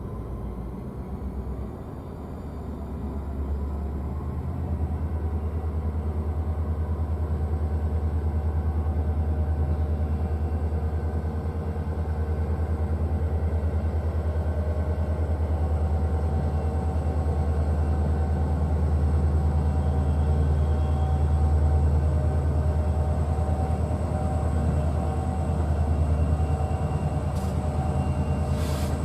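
Diesel-electric locomotive engine running under load, a deep steady drone that grows louder over the first few seconds and then holds. A short sharp click comes near the end.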